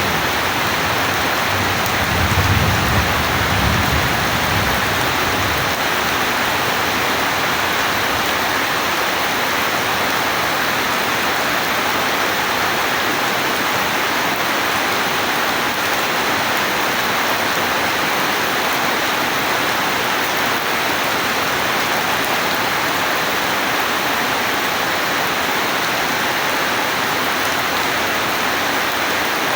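Steady rain falling, an even hiss. About two seconds in, a low rumble of thunder swells and fades over a few seconds.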